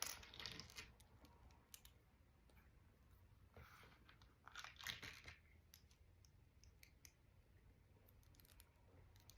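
Faint handling of small plastic Lego pieces: light clicks and short rustles, with a few clusters near the start and about halfway through.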